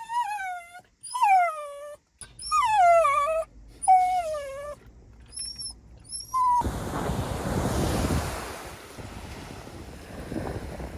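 Dog whining: a run of high whines, each falling in pitch, about one a second, then a few short high squeaks. About two-thirds of the way through, a loud steady rushing noise takes over and slowly fades.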